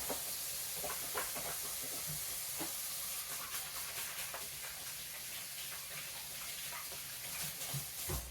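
Steaks sizzling in a frying pan: a steady high hiss with scattered small pops and crackles.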